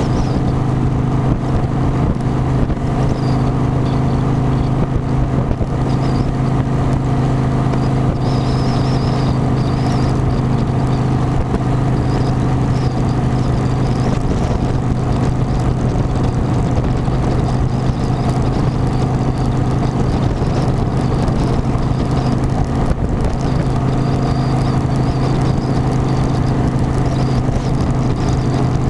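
Harley-Davidson motorcycle engine running steadily at cruising speed, a constant low drone under rushing wind noise.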